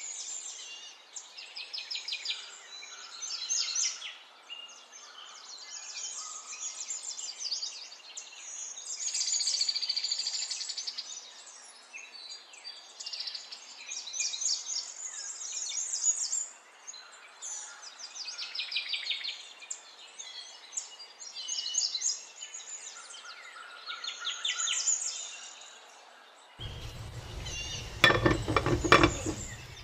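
Small birds chirping and trilling over and over in quick, high runs. Near the end a louder rattling clatter comes in as a glass lid is set on the pot.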